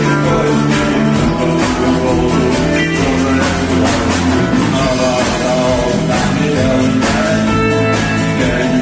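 Rock music: guitar, bass and a steady drum beat.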